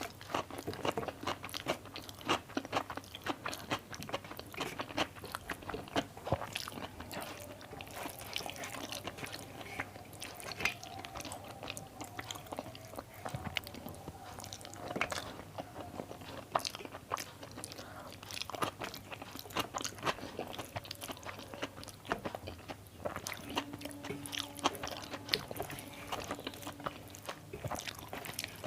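Close-miked eating sounds: a person chewing and biting food, with many crisp crunches and wet mouth clicks packed closely together.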